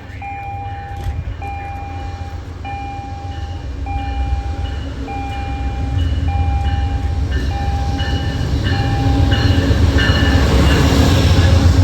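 Railroad grade-crossing bell dinging in an even rhythm, a little under twice a second, while the low rumble of an approaching train grows steadily louder from about six seconds in and drowns the bell out near the end.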